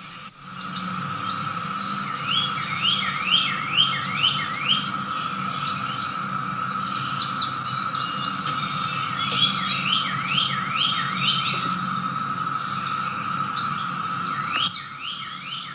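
A steady, unexplained humming drone, heard as coming from the sky, made of a low hum with a higher steady tone above it; it cuts out shortly before the end. Over it, birds chirp in quick runs of short downward-sweeping notes.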